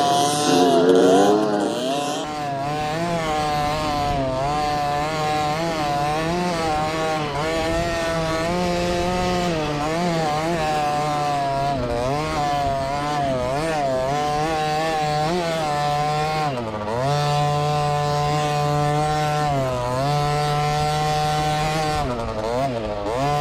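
Small two-stroke dirt bike engine revving up and down over and over as the rider works the throttle, its buzzing pitch rising and falling continuously.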